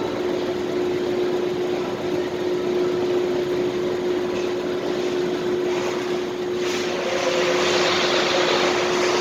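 Car park ambience: a steady mechanical hum with one constant tone. About seven seconds in, a louder rush of noise builds as a car drives through.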